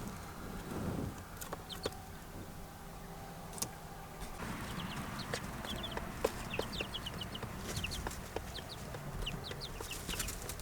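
Young, feathered-out chicks peeping: many short, high cheeps, coming thicker in the second half, with a few light clicks among them.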